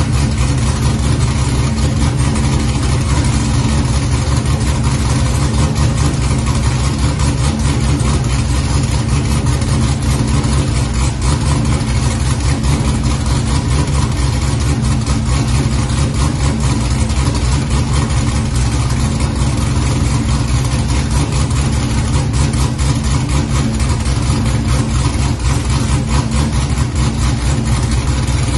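Pontiac G8's engine idling steadily on its first run with a newly installed aftermarket camshaft and headers. Heard from behind at the exhaust, it is a deep, fast-pulsing exhaust note with no revving.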